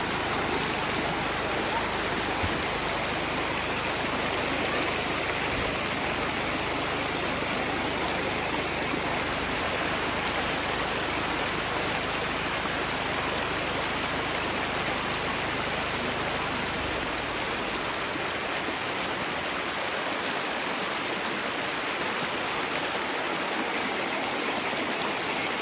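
Rushing water of a mountain stream, a loud steady hiss.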